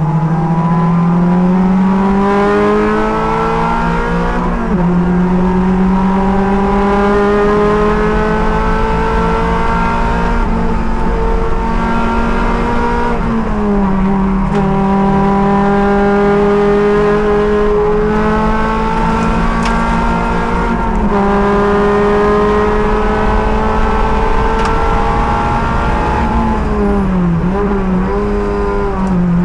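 Race car's engine under hard acceleration, its pitch climbing steadily through each gear and dropping at upshifts about 4.5, 13.5 and 21 seconds in. Near the end the pitch falls in quick steps as the car downshifts.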